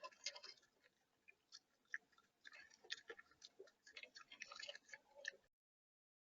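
Close-up irregular tapping and cracking of seed at a bird-feeder camera, an animal pecking and eating at the tray, then the sound cuts out abruptly to dead silence about five and a half seconds in.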